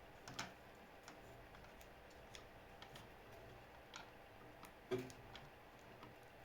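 Faint, irregular light clicks and taps against near silence, with two louder knocks about half a second in and about five seconds in.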